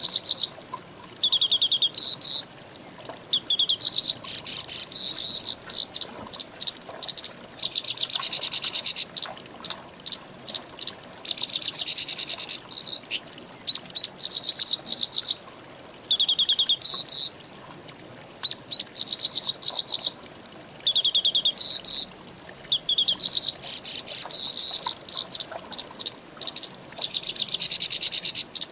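A songbird singing a fast, varied song of rapid high chirps and trills, in phrases that break off and restart every second or two, over a faint steady high-pitched hiss.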